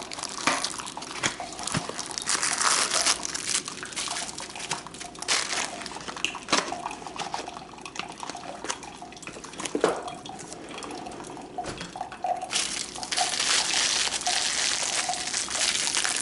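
Keurig K-Cup coffee maker running its plain-water rinse brew, hot water trickling and splashing into a mug, with crinkling and small clicks of a package being handled. About twelve seconds in the water sound turns steadier and louder.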